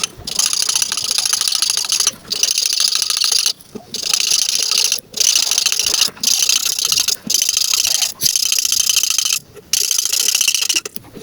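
Rapid back-and-forth coloring strokes scratching across paper. They come in runs of one to two seconds, with short pauses between them.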